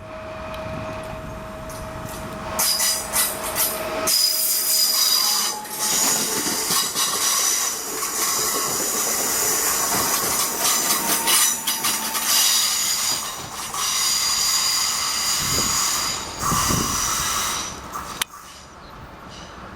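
Koleje Małopolskie passenger train running past with its wheels squealing high-pitched on the rails, loudest from about three seconds in and fading away near the end.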